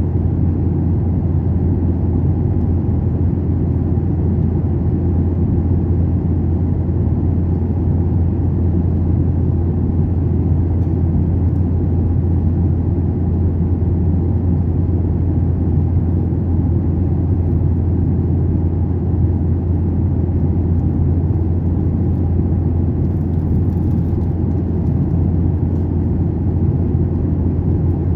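Airliner cabin noise: the steady low drone of the jet engines and airflow, unchanging throughout.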